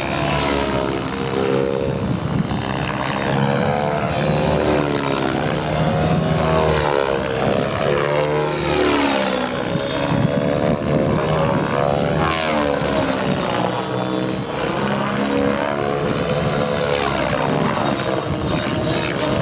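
Radio-controlled 3D aerobatic helicopter in flight, its rotor and motor whine rising and falling in pitch again and again as it swoops and flips through manoeuvres.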